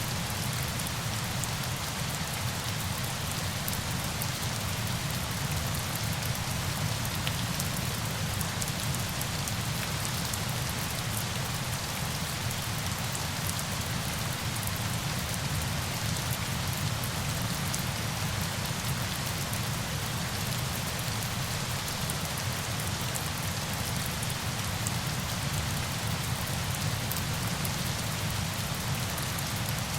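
Steady rush of falling water, like rain or a waterfall, with a low rumble underneath and faint droplet ticks scattered through it. It stays at an even level without changing.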